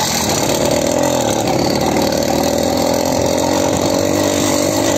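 Motorcycle engine running steadily at an even speed, its pitch holding constant.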